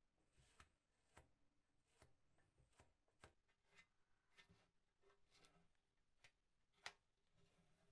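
Near silence, broken by faint light clicks about twice a second, with one slightly louder click near the end.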